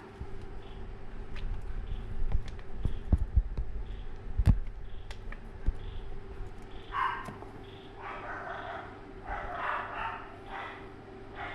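Several short animal calls in the second half, with knocks and bumps before them.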